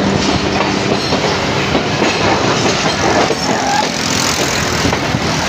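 Passenger train running, with a steady rumble and the clatter of wheels over the track.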